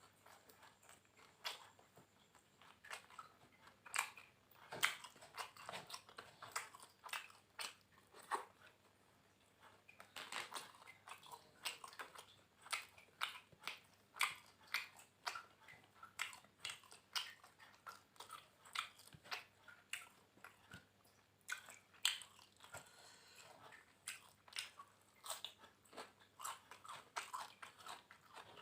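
A person chewing and biting crunchy food close to the microphone: a meal of fried catfish with raw vegetables. Irregular crisp crunches and chewing clicks come several times a second throughout.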